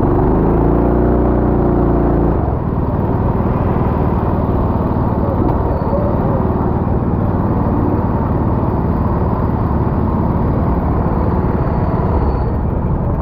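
Kart engine running: a pitched engine tone for the first two seconds or so, then a steady noisy drone.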